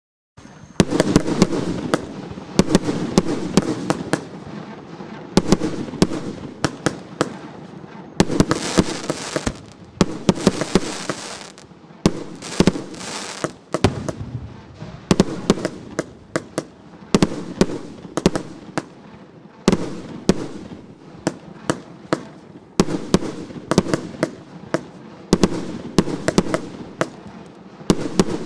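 A 100-shot, 1.25-inch firework cake (battery) firing: a dense run of sharp bangs from launches and bursts in quick clusters, starting suddenly about half a second in.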